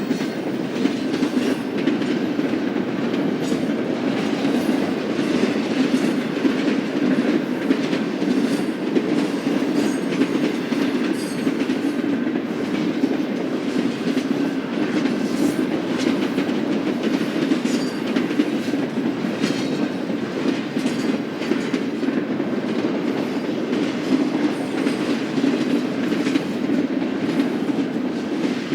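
Freight train cars rolling steadily past, their wheels clicking over the rail joints.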